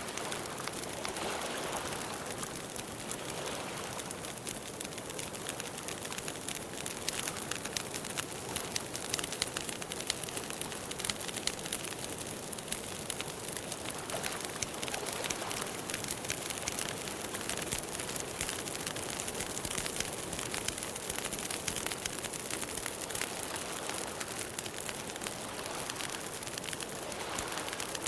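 Campfire burning with dense, steady crackling and popping.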